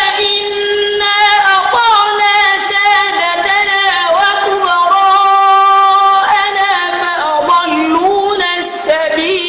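Melodic Quran recitation by a single high voice, held long notes with ornamented runs and wavering pitch.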